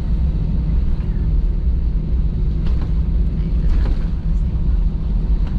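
Cabin noise inside an Airbus A320 moving on the ground: a steady, loud low rumble of the jet engines and airframe with a constant hum, with no rise or fall.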